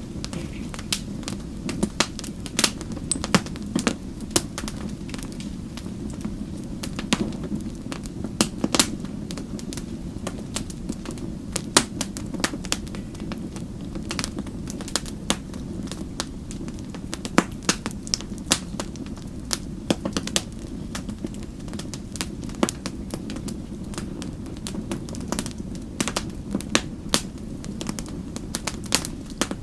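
Wood fire burning with a steady low rush of flame and many sharp, irregular crackles and pops.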